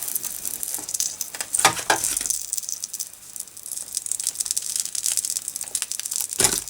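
Flux crackling and sizzling on the molten solder of a DIY solder pot while a motherboard's PCI slots sit in it, desoldering. A few sharp knocks of the board or tools come about two seconds in and again near the end.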